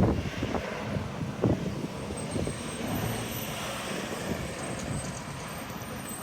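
Road traffic going by, trucks among the vehicles: a steady rumble of passing engines and tyres with a few light knocks.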